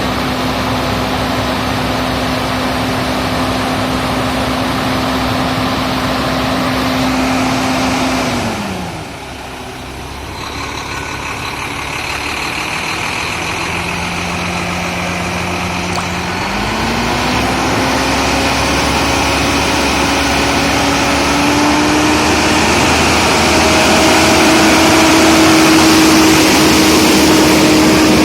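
Old truck engine running after a long standstill: it holds a steady speed, the engine note falls to a lower idle about eight seconds in, then rises again about halfway through and holds at a higher speed.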